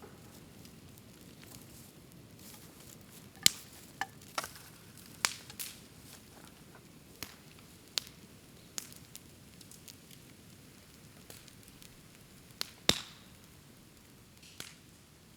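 Bamboo bonfire crackling: a low steady hiss under irregular sharp pops and snaps from the burning bamboo, two of them louder than the rest.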